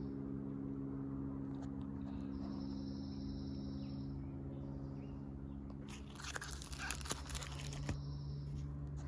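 A steady low hum, with a high-pitched buzz that comes and goes, and a burst of crinkling, crunching noise from about six to eight seconds in.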